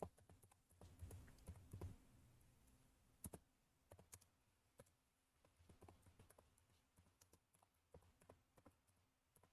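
Faint typing on a computer keyboard: a run of soft, irregular key clicks.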